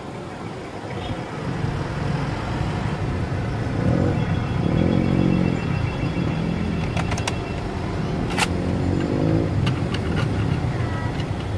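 Car engine running over a steady low traffic rumble, louder between about four and six seconds in and again near nine seconds. A few sharp plastic clicks come between about seven and eight and a half seconds in, as Nerf blaster parts are handled and fitted together.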